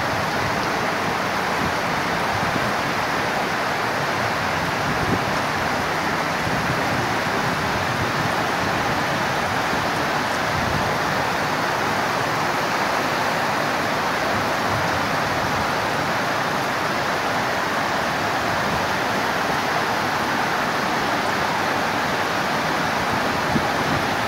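Heavy rain pouring steadily onto wet pavement, a dense even hiss.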